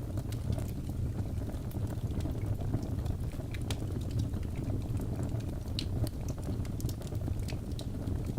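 Birch logs burning in a fireplace: a steady low rush of flames with frequent small sharp crackles and pops scattered throughout.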